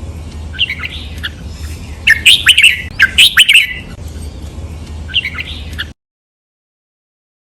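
Red-whiskered bulbul singing a training model song: three loud bursts of quick, sweeping chirped phrases over a low steady hum. About six seconds in, the sound cuts off suddenly to silence.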